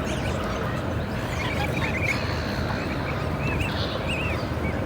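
A large flock of geese and other waterfowl calling on and off in short rising-and-falling calls, over a steady low rumble.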